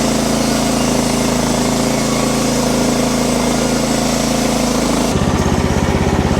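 Wood-Mizer LX50 Super portable band sawmill running loud and steady under load as its band blade saws a board off the log. About five seconds in, the sound drops to a lower, throbbing beat.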